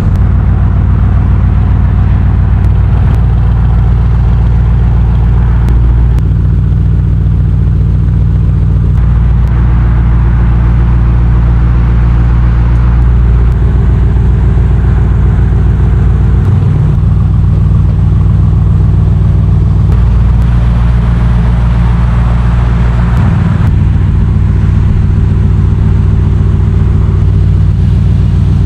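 Aston Martin DBX S 4.0-litre twin-turbo V8 running under way. Its note holds steady, then shifts in steps every few seconds, with swells of intake and exhaust noise in between.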